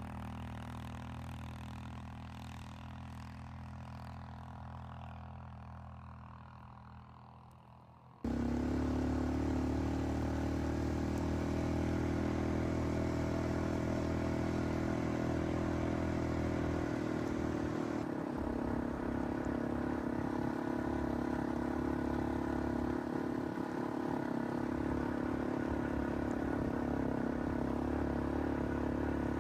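Small vehicle engine running at a steady speed, fading away over the first eight seconds, then cutting abruptly to a much louder, closer engine running steadily for the rest of the time.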